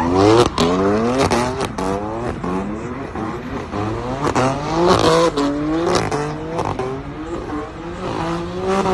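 BMW F80 M3's S55 twin-turbo straight-six revving hard through open exhaust valves, its pitch climbing and dropping about once a second, with sharp exhaust cracks scattered through the revs.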